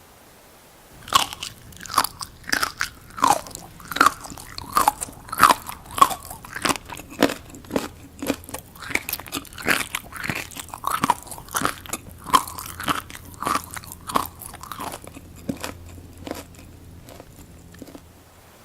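Close-miked chewing of crunchy seaweed: repeated sharp, wet crunches about two a second, starting about a second in and tapering off near the end.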